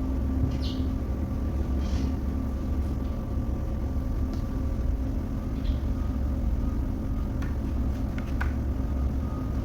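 Steady low mechanical drone with a constant hum, with a few short faint clicks and squeaks over it.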